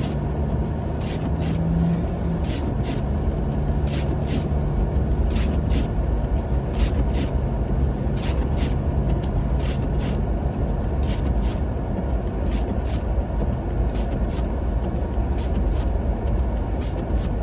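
Ford Maverick pickup driving on snowy roads, heard from inside the cab: a steady low rumble of road and engine noise, with an engine hum that fades after the first few seconds. Irregular sharp clicks and ticks, a couple a second, run over it.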